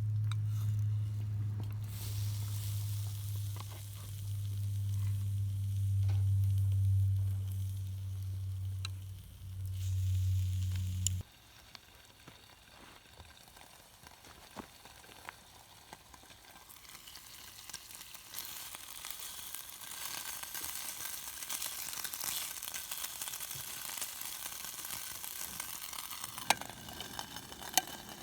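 Food sizzling in hot cookware over the heat, faint at first and growing fuller from about eighteen seconds in, with a few sharp crackles near the end. Under the first eleven seconds a low steady hum runs, then stops abruptly.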